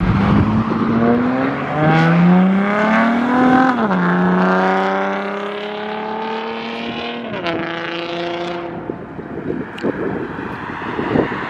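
2006 Acura TL's 3.2-litre V6 through a straight-piped exhaust (catless J-pipe, Dynomax Race Bullet resonator, 3-inch straight pipe back) pulling hard. Its pitch climbs, drops at a shift a little before four seconds in, holds, then drops again about seven seconds in, before fading into wind noise near the end.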